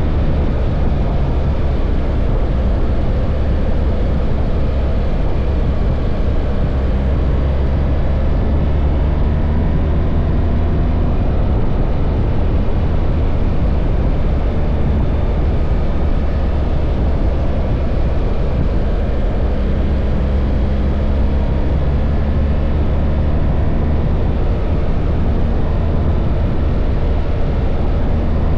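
BMW R1300 GS boxer-twin engine running steadily under way, mixed with a constant rush of wind and road noise.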